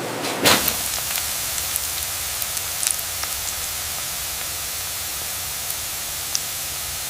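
Steady hissing noise with scattered faint ticks over a low hum, and a brief loud whoosh about half a second in.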